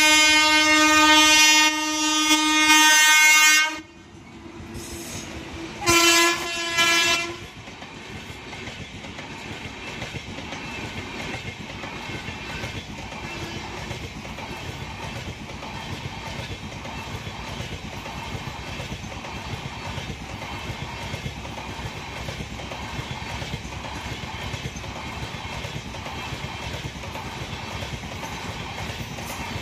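Amrit Bharat Express electric locomotive's horn: a long blast that cuts off about four seconds in, then a second, shorter blast about two seconds later. After that the train's sleeper coaches roll past with a steady rumble and the clickety-clack of wheels on the rails.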